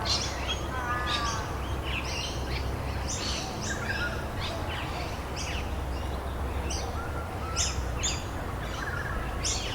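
Several birds chirping and calling, short notes repeating throughout, over a steady low background noise.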